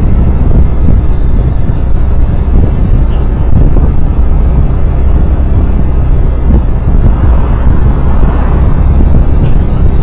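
Loud wind buffeting on the microphone of a moving road vehicle, a steady low rumble with road and engine noise beneath it.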